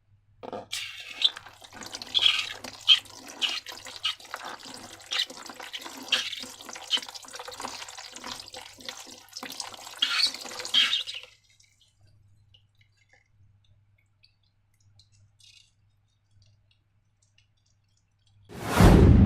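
Slime squelching and crackling wetly as it is squeezed and worked, a dense run of small sticky clicks for about ten seconds before it stops. Near the end comes a single loud, deep thump.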